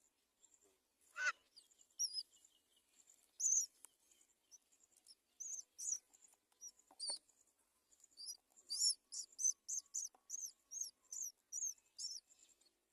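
High-pitched bird chirps: a few scattered calls at first, then a quick, even run of about three chirps a second over the last few seconds.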